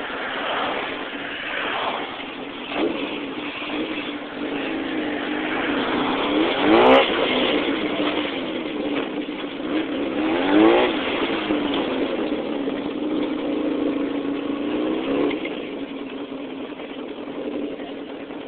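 Car engine heard from inside the cabin as the car pulls into a gas station and up to the store, rising and falling in pitch twice, about 7 and 11 seconds in. Its steady hum drops away about 15 seconds in.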